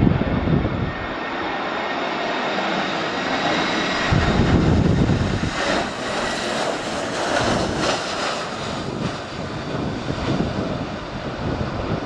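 Airbus A320-214's CFM56 jet engines passing on a landing approach: a steady rushing roar with a faint high whine, swelling midway through. Gusts of wind buffet the microphone with low rumbles near the start and again about four seconds in.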